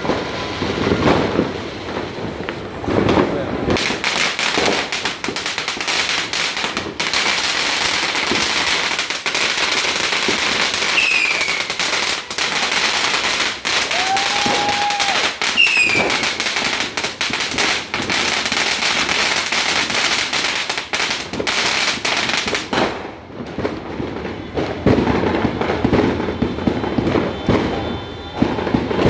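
Two ground firework fountains spraying sparks, with a dense, rapid crackling over a steady hiss. It starts about four seconds in and cuts off sharply about twenty-three seconds in, and a couple of short falling whistles sound above the crackle midway.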